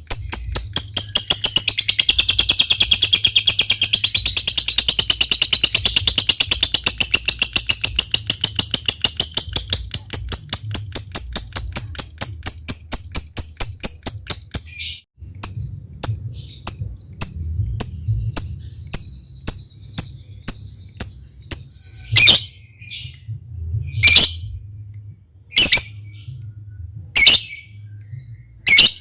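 Lovebird ngekek: a long, fast chattering trill of sharp, high notes for about fifteen seconds. It then breaks into scattered chips, and from about two-thirds in gives single loud, shrill calls roughly every second and a half. A steady low hum runs underneath.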